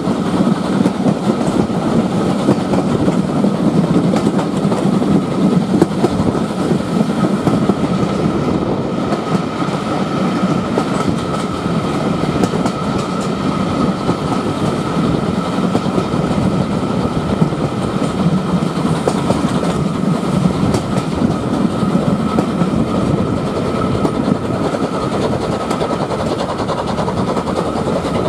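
Steam-hauled passenger train running at speed, heard from a carriage window: a steady loud rumble of the carriage wheels on the rails with a clickety-clack over the rail joints, behind the LMS Jubilee 4-6-0 locomotive no. 45596 Bahamas, and a faint steady whine.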